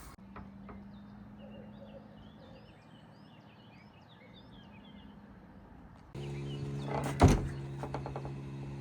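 Faint high chirps over a low steady hum. About six seconds in, the background jumps to a louder steady hum. A single loud thunk follows about a second later, then a few lighter knocks.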